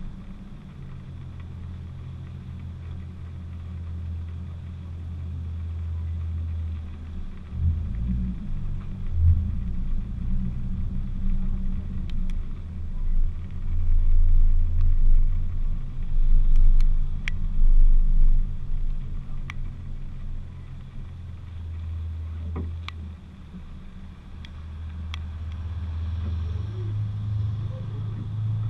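Nissan 350Z's V6 engine running at low revs as the car moves slowly, its note shifting in pitch a few times and growing louder for a few seconds in the middle, with a few short sharp ticks.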